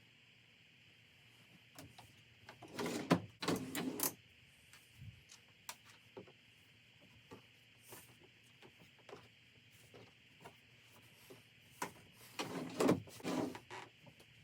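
Small clothes being handled and folded: fabric rustling in two brief bursts, with scattered light clicks and taps in between.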